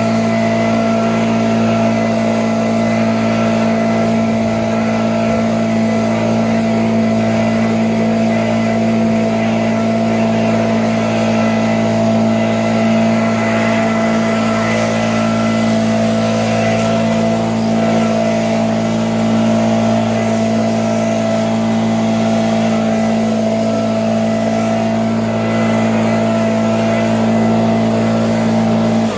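Small gasoline engine of lawn equipment running steadily at a constant high speed, with no change in pitch; it cuts off abruptly at the end.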